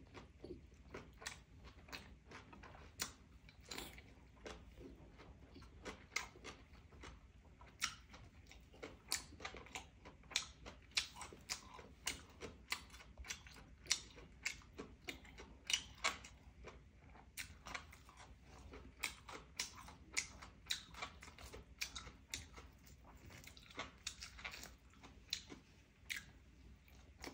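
A person chewing and biting roasted duck: a steady run of small crunches and mouth clicks, a few a second.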